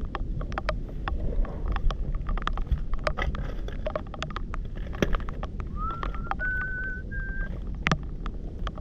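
Gravel, stones and debris on a muddy foreshore clicking and crunching as it is walked on and picked through, over a steady low rumble of wind on the microphone. A brief high whistled note rises and then holds level for about a second and a half, about six seconds in.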